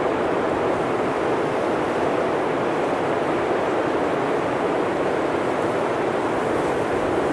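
Blizzard wind blowing steadily: an even, deep rush of noise with no gusts, lulls or separate events.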